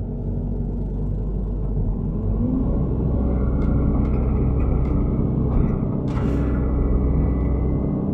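Hydraulic excavator's diesel engine running under load, revving up about two and a half seconds in. A few sharp cracks and a brief rushing noise around six seconds in.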